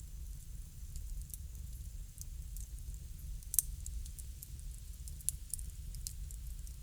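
Wood fire crackling: scattered sharp crackles and pops over a low steady rumble, with a louder pop about halfway through.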